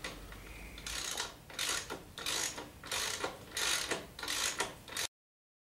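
Socket ratchet wrench being swung back and forth to tighten the nuts bolting down a mower gearbox, a run of short clicking strokes a little under a second apart that stops abruptly near the end.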